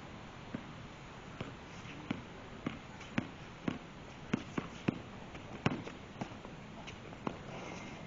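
Basketball being dribbled: a dozen or so sharp bounces, irregularly spaced about half a second to a second apart, coming quicker in the middle.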